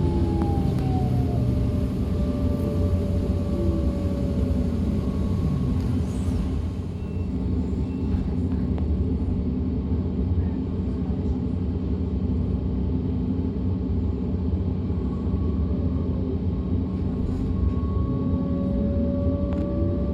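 DB class 425 electric multiple unit running, heard from on board: its traction converters whine in several tones that slide down in pitch over the first few seconds, hold steady through the middle, and slide up again near the end. A steady low rumble from the running gear lies underneath.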